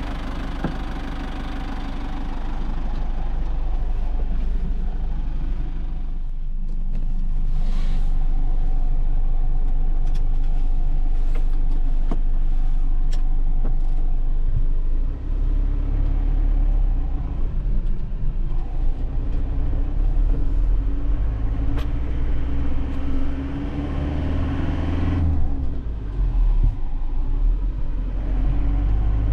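A 2001 Nissan Cabstar light truck's engine running while driving, heard from inside the cab, with a brief dip about six seconds in. From about halfway the low rumble grows stronger and uneven, with scattered clicks and rattles, as the truck runs over a rough, badly surfaced road.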